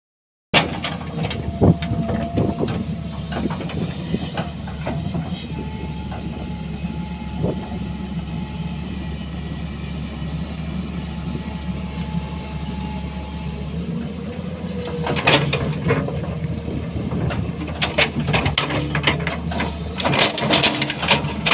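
Hitachi 200-class hydraulic excavator's diesel engine running steadily with a faint steady whine, overlaid by sharp knocks and clanks that come thick and fast from about fifteen seconds in.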